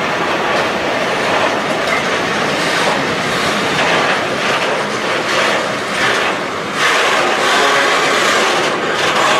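Freight train of tank wagons rolling past, a steady noise of wheels running on the rails that gets a little louder about seven seconds in.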